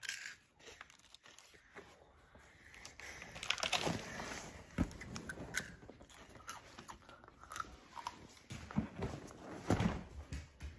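Crisp rolled wafer sticks crunching as they are bitten and chewed, in irregular crackles. A few dull thumps near the end.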